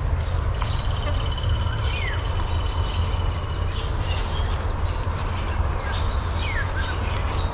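Wild birds calling outdoors: a fast thin trill for about three seconds and two short downward-sliding chirps, over a steady low rumble.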